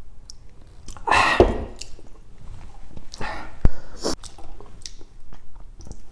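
Close-miked chewing and wet mouth sounds of someone eating pork adobo, with many small smacks and clicks. Two louder breathy rushes come about a second in and about three seconds in, and a sharp click follows the second.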